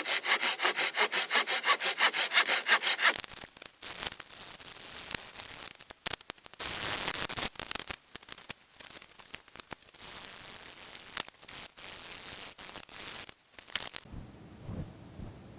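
Hand saw cutting through wood in fast, even strokes, about four or five a second, stopping abruptly about three seconds in. Quieter, irregular rasping and knocks of wood being worked follow.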